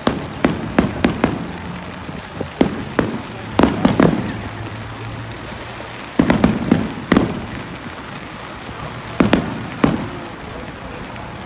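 Fireworks shells bursting in quick clusters of sharp booms, each followed by a rolling echo off the surrounding skyscrapers. The clusters come every few seconds.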